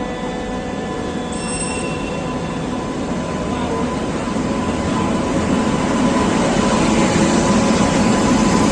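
Passenger train pulling into the platform, its rumble of wheels and carriages growing steadily louder.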